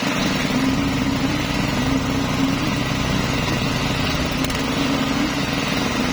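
Engines of concrete-pouring machinery running steadily, a continuous mechanical drone with a strong low hum.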